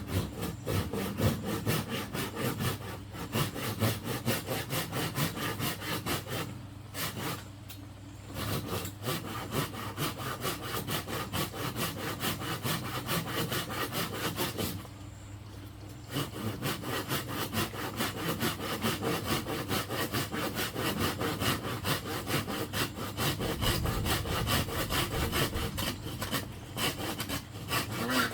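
Hand sawing through bamboo in a fast, even run of strokes that stops briefly twice.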